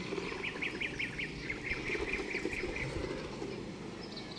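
A bird, duck-like, calling in a rapid run of short repeated calls, about six a second, lasting roughly two and a half seconds.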